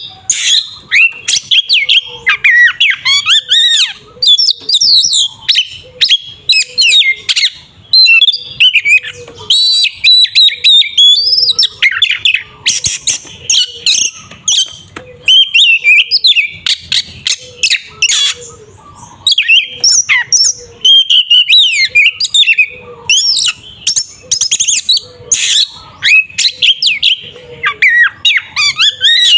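Oriental magpie-robin in full aggressive fighting song: a loud, fast, nearly unbroken stream of varied whistles, glides, trills and sharp clicking notes, with only brief pauses.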